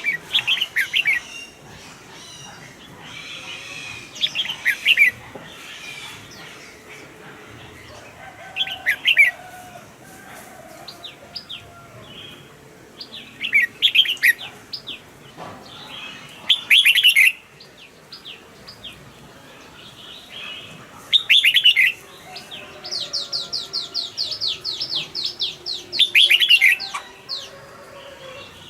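Red-whiskered bulbuls singing: short, loud, warbling phrases every few seconds, with a fast run of high chirps about three-quarters of the way through.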